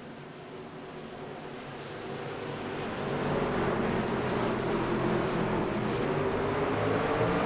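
Truck engine getting louder as it approaches, its pitch rising steadily in the second half.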